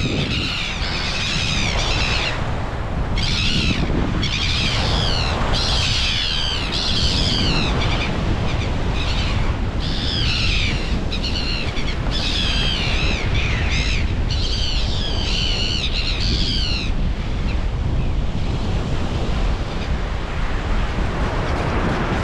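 Seagulls giving loud, repeated high calls as they dive-bomb an intruder near their nesting ground; the calls stop about three-quarters of the way through. Beneath them is a steady rush of wind and surf.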